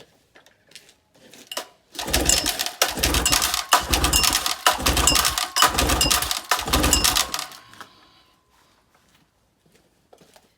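Recoil pull-starter of a 30 hp Mercury two-stroke outboard being yanked about six times in quick succession, roughly a second apart, starting about two seconds in. The rope whirs and the engine spins over without firing, because the spark plugs are out. It is being cranked for a compression test.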